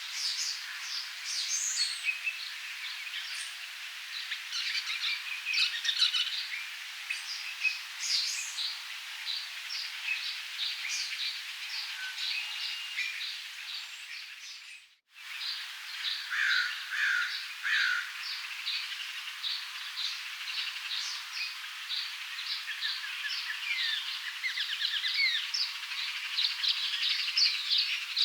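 Birds chirping and calling, many short overlapping calls. The sound breaks off briefly about halfway through, and a few lower, louder calls come soon after.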